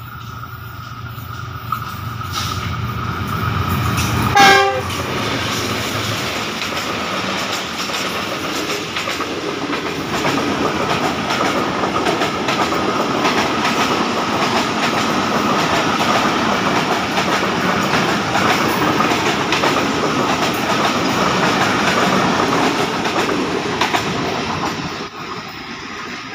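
Pakistan Railways passenger express running through a station without stopping. The locomotive gives one short horn blast about four and a half seconds in as it nears. The coaches then rush past with a steady din of rapid wheel clicks over the rail joints, which fades away near the end.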